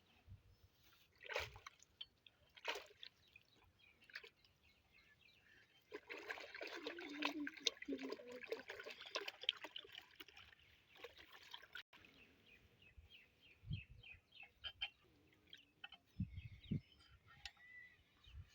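Water trickling and splashing, irregular and faint, louder for a stretch in the middle, with a few sharp ticks near the start.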